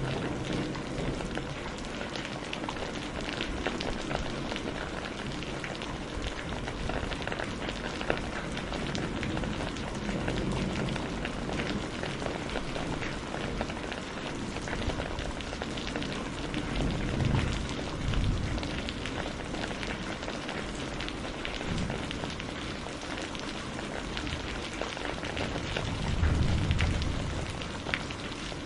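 Steady rainfall, a dense patter of drops hissing on foliage and surfaces, with a low rumbling swell twice: a little past halfway and near the end.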